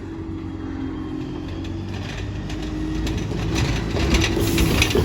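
Diesel bus engine running as the bus draws nearer, growing steadily louder, with rattles in the last couple of seconds.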